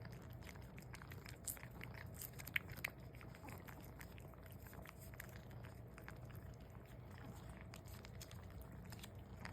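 A cat eating, with faint, scattered small chewing and licking clicks over a low steady room hum.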